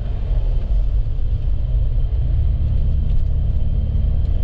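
Steady low rumble of a 4x4 driving over a rough, snow-covered road.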